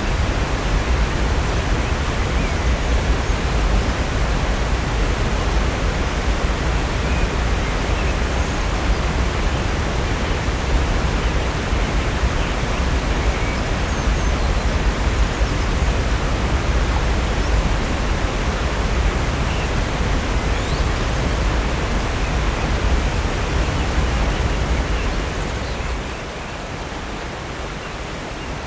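Steady, loud rush of the 65-foot Upper North Falls pouring into Silver Creek, with a deep rumble underneath. Near the end the rush abruptly becomes quieter and thinner in the low end.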